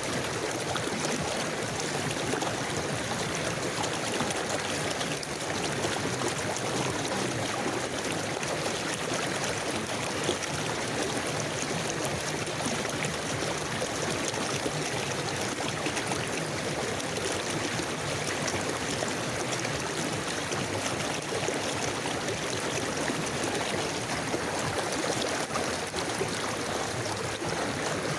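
River water flowing steadily, a continuous rushing and trickling with no pauses.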